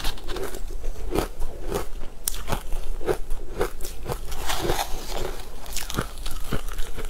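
Close-miked crunching and chewing of a mouthful of crumbly frozen food, with sharp crunches about twice a second, irregularly spaced.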